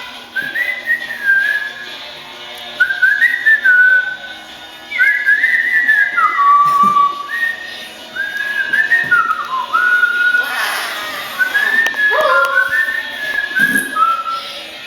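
Pet parrot whistling a tune: short phrases of clear notes that step up and down in pitch, repeated with brief pauses. There is a short harsh noise about ten seconds in.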